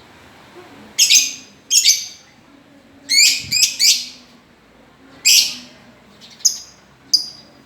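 Lovebirds calling: short, loud, shrill chirps, some in quick runs of two or three, repeated every second or so.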